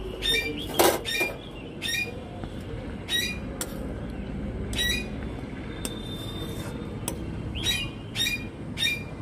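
A bird calling over and over with short, sharp squawking calls, about one or two a second, over a low steady hiss. There is one brief rushing noise about a second in.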